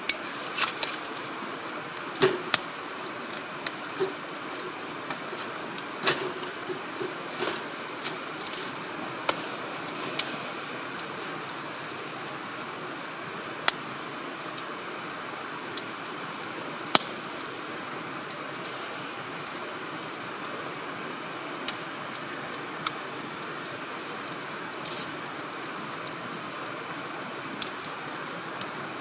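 Wood fire burning in a firewood grill, with a steady hiss and sharp crackles and pops from the burning logs. The pops come thick in the first ten seconds or so, then more sparsely.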